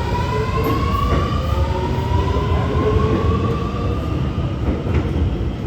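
R211T subway car under way: the traction motors whine, rising steadily in pitch as the train picks up speed, over a heavy rumble of wheels on the track.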